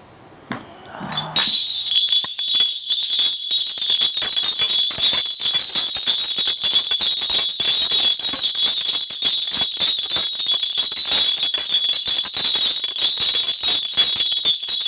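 Korean shaman's ritual bells (bangul), a cluster of small brass bells shaken steadily in a spirit divination, a dense continuous jingling that starts about a second and a half in.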